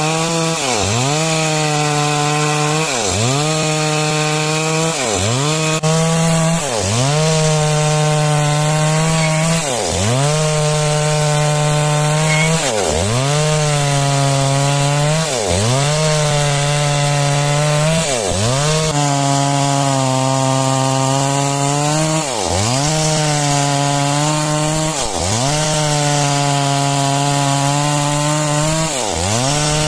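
Chainsaw cutting lengthwise through timber. The engine runs at high revs, and its pitch dips sharply and climbs back about every two seconds.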